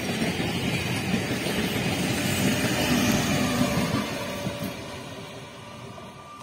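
MEMU electric multiple-unit passenger train running past, its wheels rumbling on the track; the noise peaks about three seconds in, then fades as the train draws away.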